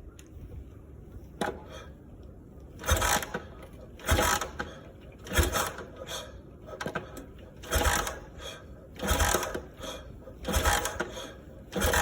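Cold 1971 Kawasaki W1SA 650 twin on a morning cold start: loud bursts come about every one and a quarter seconds, each about half a second long, over a low rumble in between.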